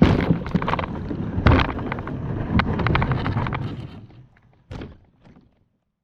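Wind buffeting the microphone, with scattered knocks and thuds of handling. It fades out about four seconds in, with one last knock just before it ends.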